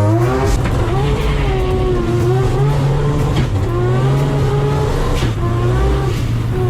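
Three-rotor 20B rotary engine in a Mazda RX-7 running hard at high revs, its pitch rising and falling with the throttle and dipping briefly a little past five seconds in.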